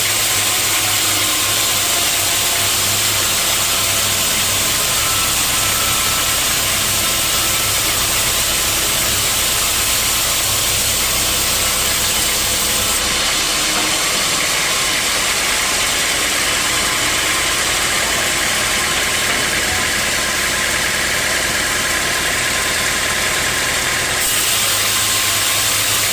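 Sawmill machinery running steadily. About halfway through its sound changes and takes on a steady higher tone, which drops away just before the end.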